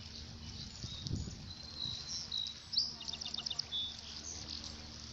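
Birds calling in short, high chirps and whistles, with a quick run of about six notes in the middle, over the steady lapping and trickle of lake water at the shore.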